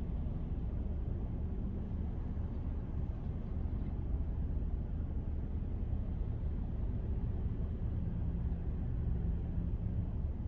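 Steady low rumble of a car driving, with road and engine noise and no sudden events.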